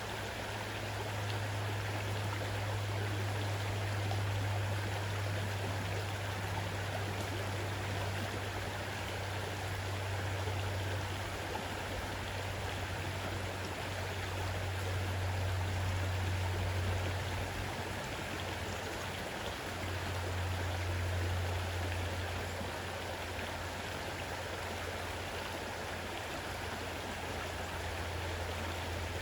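Fast-running river rushing steadily, an even wash of water noise with a deep low rumble that swells and eases.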